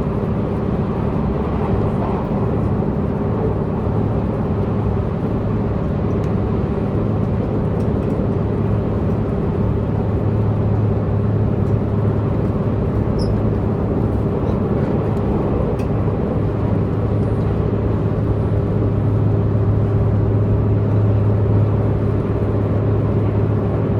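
Diesel multiple-unit train's underfloor diesel engine running steadily at speed, a constant low drone mixed with rail and running noise as heard inside the passenger car. The drone swells a little in the last third.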